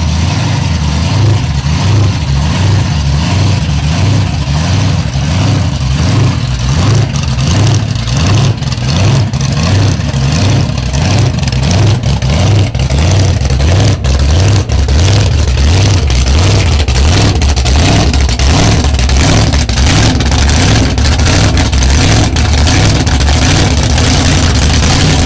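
Supercharged 572 cubic inch Hemi V8 with a roots-style blower, idling loud with an uneven, pulsing beat as the car moves at walking pace.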